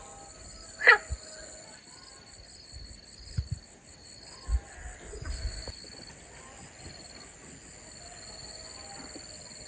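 Outdoor rural ambience with steady, pulsing high-pitched animal chirring, one loud call falling in pitch about a second in, and a few low thumps in the middle.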